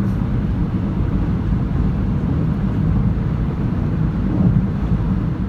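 Steady low rumble of a car on the move: engine and road noise, with no distinct events.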